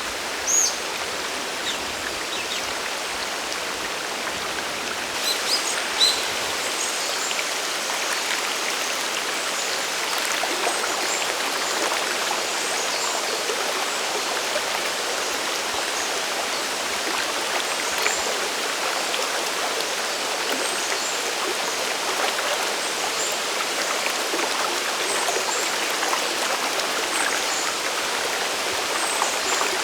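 Steady rush of water from a mountain stream and waterfall. A few short, high chirps are heard in the first six seconds.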